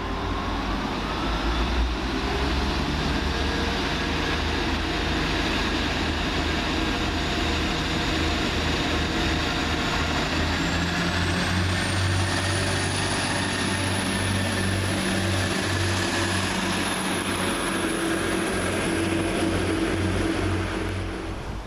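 Class 175 diesel multiple unit pulling away under power, its diesel engines running loud and steady. A high whine rises in pitch about halfway through, then holds.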